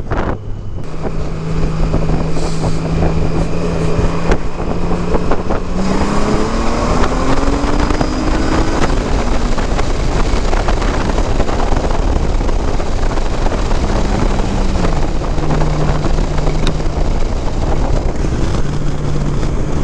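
2018 Honda Gold Wing Tour's flat-six engine breathing through modified stock mufflers. It runs steadily, then revs up and climbs in pitch for a few seconds as the bike accelerates, drops in pitch partway through, and settles into a steady run again, with no drone. Wind rushes over the microphone throughout.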